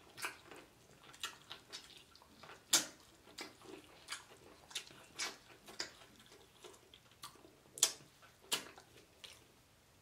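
Close-miked eating sounds of a seasoned seafood boil: irregular wet mouth smacks and clicks of biting and chewing, the sharpest about 3 s and 8 s in.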